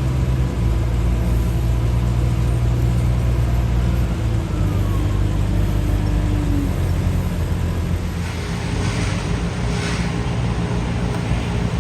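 A large engine on heavy machinery runs steadily with a low drone that shifts down slightly in pitch about four seconds in. Two brief rushing noises come near the end.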